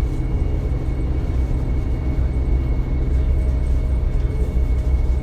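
Electric multiple unit of DB Class 425 running, heard from inside the passenger compartment: a steady low rumble with a faint steady high tone above it.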